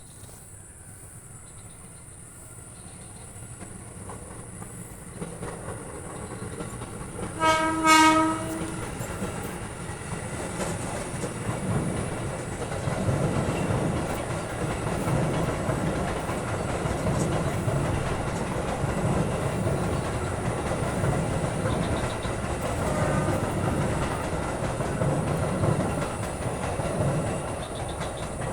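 A train approaches and sounds its horn once, a single pitched blast of about a second, a quarter of the way in. It then passes close by with a loud, steady rumble and the wheels clattering on the rails.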